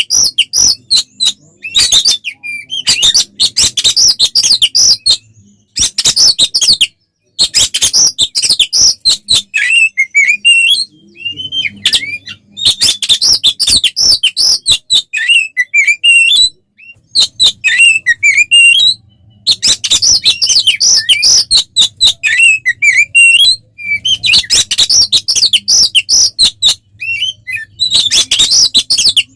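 Oriental magpie-robin (kacer) singing loudly in its excited 'fighting' style: fast chattering bursts of sharp high notes, several seconds each, separated by brief pauses. Slurred whistled phrases are mixed in around the middle.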